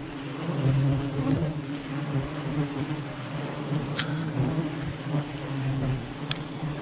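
A swarm of honey bees buzzing around a wild hive, a steady wavering hum. Two sharp clicks cut through it about four and six seconds in.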